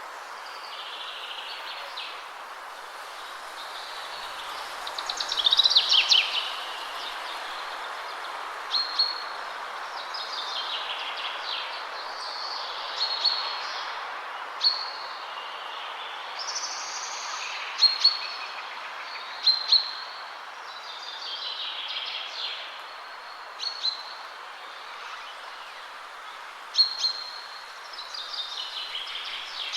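Steady rush of wind in trees with several songbirds singing and calling over it. Short high calls recur every few seconds, and a louder falling trill comes about six seconds in.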